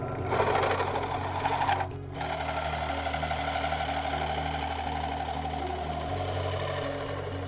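Suzuki Wagon R (MH23S) engine idling with a fast, dry metallic rattle, the 'karakara' noise this car makes only at idle, broken off briefly about two seconds in.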